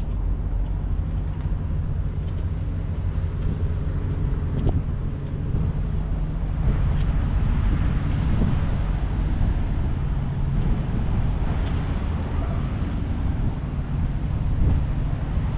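A vehicle engine running steadily, a constant low hum with a steady drone.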